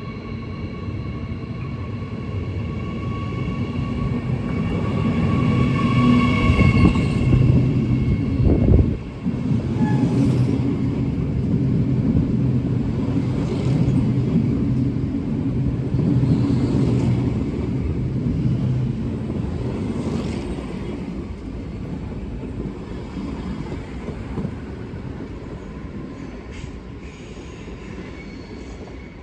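Electric train passing close by. A whine of several steady tones from the drive is heard as it comes up. Then a loud rolling rumble of wheels on rail slowly fades as it moves away, with a faint click about every three seconds.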